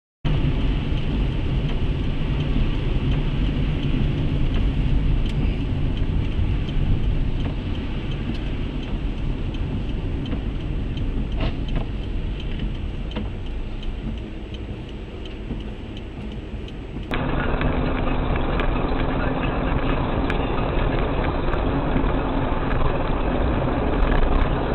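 Car interior road and engine noise picked up by a dashcam, a steady low rumble with a few light clicks. About 17 seconds in it switches abruptly to a duller, more muffled recording of the same kind.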